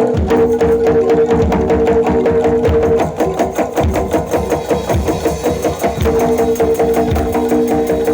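Jaranan dor ensemble music: quick, steady drum and percussion strokes under a held high note, which drops out for about three seconds midway.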